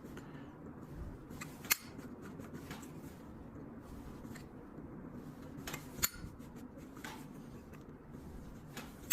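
Scattered small metal clicks and taps from a flip-top lighter being handled and worked on at the hinge, with a few sharper clicks about two seconds in, near the middle and at the very end, over a faint steady room hum.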